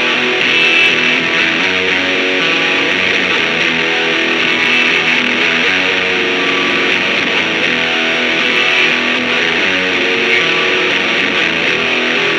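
Distorted electric guitar strumming chords in a grunge tone, played through effects pedals and a simulated amplifier (impulse response).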